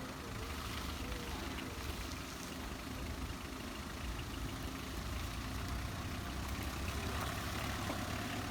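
Tata Super Ace's diesel engine idling steadily, running after a failed glow plug on the first cylinder was replaced.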